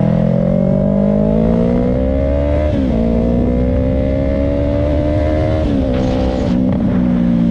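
2020 Yamaha R3 with an M4 Street Slayer slip-on exhaust accelerating through the gears. The engine note climbs steadily, drops abruptly with an upshift about three seconds in, climbs again, then drops with a second upshift near the end and settles.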